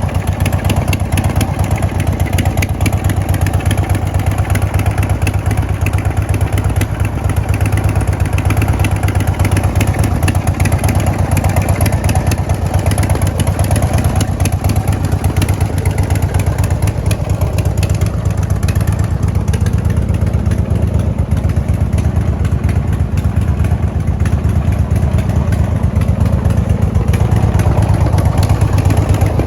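2009 Harley-Davidson Road Glide's Twin Cam 96 V-twin running steadily at idle through Vance & Hines exhaust.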